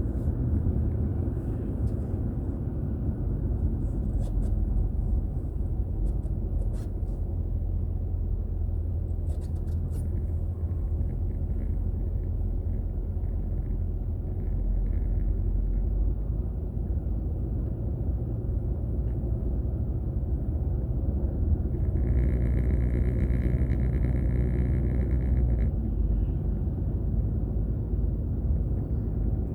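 A car's steady low road and engine rumble, picked up by a dashcam inside the cabin while driving. A steady high tone sounds for about four seconds, a little past two-thirds of the way through.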